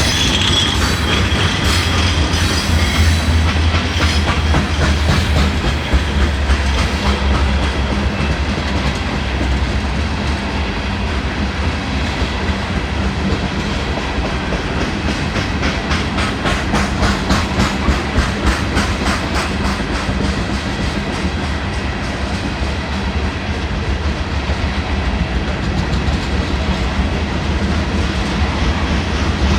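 Freight cars of a sand train rolling past on the rails, wheels clicking steadily over rail joints with a low rumble underneath. A brief wheel squeal sounds right at the start.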